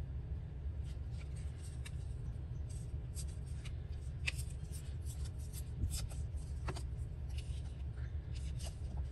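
Paper scraps being handled and shuffled on a tabletop: scattered short rustles, crinkles and light ticks, over a steady low hum.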